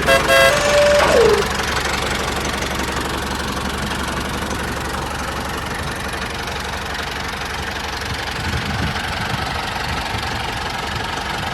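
Steady engine-like running noise of a mini tractor, with a short falling tone about a second in; it cuts off suddenly at the end.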